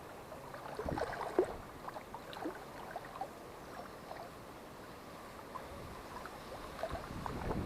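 Small waves lapping and splashing irregularly at the water's edge, with a few sharper splashes about a second in and again near the end.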